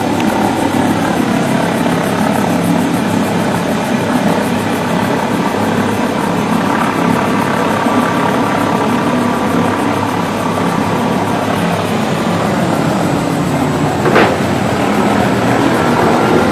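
Steady, loud aircraft engine drone, with a single short click near the end.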